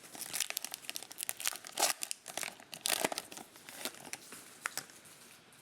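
Plastic card wrapping crinkling and rustling as trading cards are handled: a run of irregular crackles, loudest about two and three seconds in, tailing off near the end.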